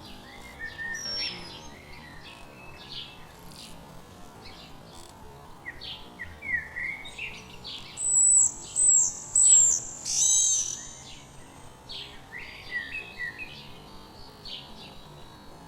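Several songbirds chirping and calling, many short overlapping notes. The loudest comes about eight seconds in: three sharp, high notes in quick succession, then a longer call that falls in pitch.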